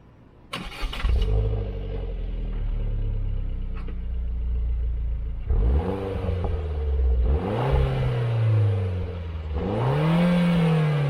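2015 Vauxhall Corsa VXR's 1.6-litre turbocharged four-cylinder engine starting under a second in, flaring briefly and settling into a steady idle. From about halfway it is revved three times, each rev rising and falling back.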